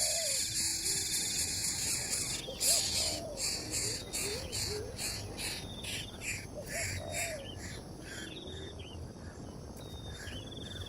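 Outdoor animal ambience: insects buzzing high and steady, then in quick pulses, under short chirps and repeated short, low, curving calls from birds or frogs.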